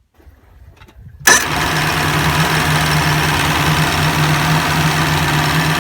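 Engine of a 1994 Four Winns Fling jet boat starting: faint sound for about a second, then it fires with a sudden loud catch and settles into a steady idle.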